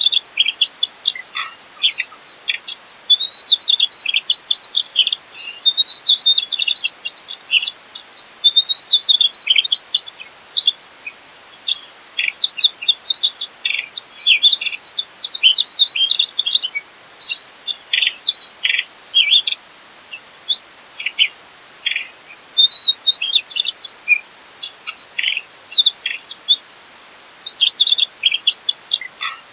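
Mugimaki flycatcher singing a fast, continuous twittering song of short, high chirps and trills, with only a few brief pauses.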